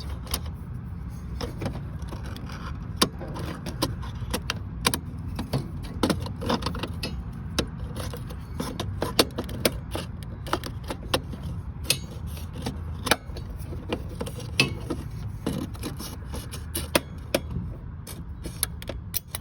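Irregular clicks, knocks and scrapes of a stack of strong magnets being tapped and slid against a Norcold RV fridge's panel, over a steady low hum.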